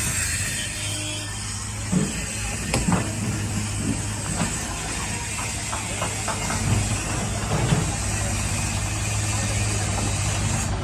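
Heavy diesel engine running steadily, with scattered knocks and clunks from about two seconds in.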